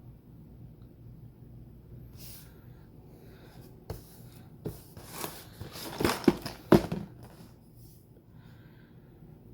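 Handling noises: a cluster of sharp clicks and knocks with some rustling, loudest about six to seven seconds in, in a small room.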